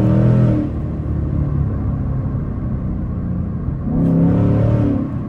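2024 Mustang GT's 5.0 L V8 pulling under throttle, with its intake fitted with high-flow air filters and the carbon traps removed. A short surge of revs comes at the start, then the engine settles to a steady run, and a second surge comes about four seconds in.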